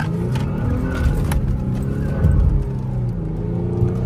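Infiniti G37's VQ37 V6 engine accelerating hard, heard from inside the cabin, its pitch rising near the end, with music playing over it.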